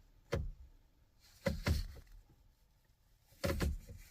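A few sharp clicks and knocks as the windshield wiper switch of a long-dead Mitsubishi Eclipse is worked; no wiper motor sound follows, because the wipers are not working.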